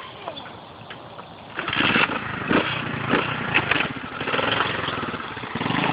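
Small dirt bike engine running, getting suddenly loud about a second and a half in and staying loud, with a rapid firing rattle.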